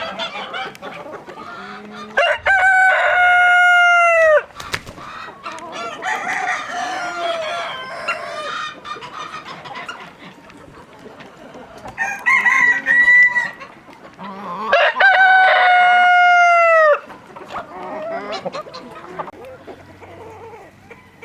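Chickens on a farm: a rooster crows twice with long, loud calls a little after the start and again about two-thirds through, with a shorter call in between. Hens cluck throughout.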